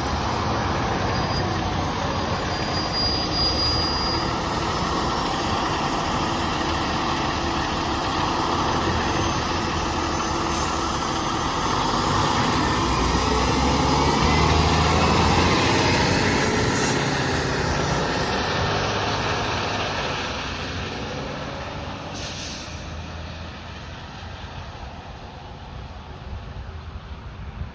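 Fire engine's diesel engine running as it pulls out of the station, swelling to its loudest around the middle, then fading away over the last several seconds as it drives off. A brief hiss sounds about two-thirds of the way through.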